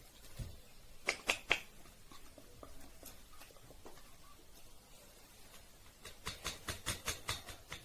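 Sharp little clicks and taps from an Indian ringneck parrot moving about: three close together a little over a second in, then a quick run of about four a second near the end.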